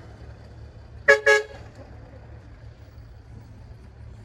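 A vehicle horn sounds two short toots in quick succession about a second in, over a steady low engine rumble.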